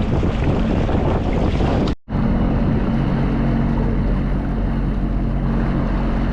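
Sea-Doo jet ski engine running steadily under way, with a steady drone under rushing wind on the microphone. The sound cuts out for a moment about two seconds in, then the same running resumes.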